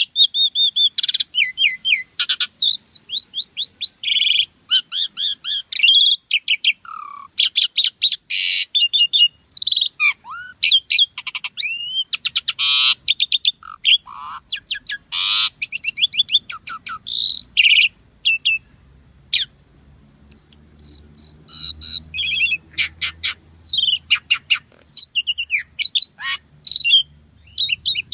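Asian pied starling (jalak suren) singing vigorously: a rapid, varied run of whistles, chatters and sliding notes with short pauses between phrases.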